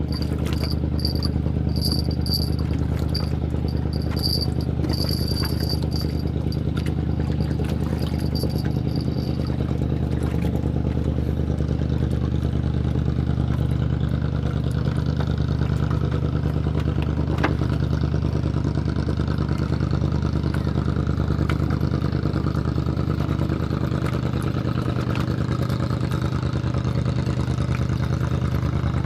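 An engine running steadily with a low drone. Over it, a small bell jingles in quick repeated bursts for about the first nine seconds, then stops.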